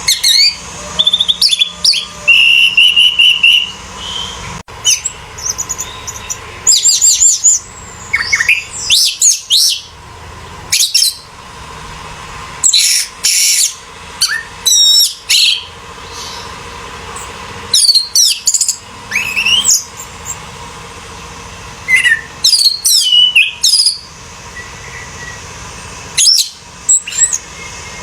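Orange-headed thrush singing: a string of loud, fast, varied whistled phrases full of quick rising and falling notes, each phrase about a second long and broken by short pauses.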